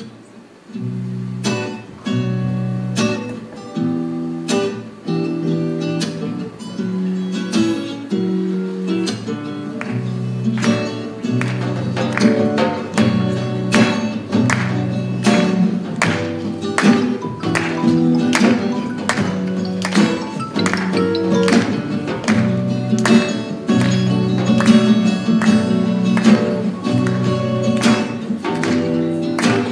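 Acoustic guitar strumming a repeating chord pattern as a song's instrumental introduction, starting about a second in.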